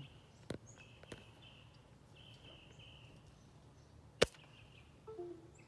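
Birds chirping, a string of short high notes one after another, with a single sharp click about four seconds in.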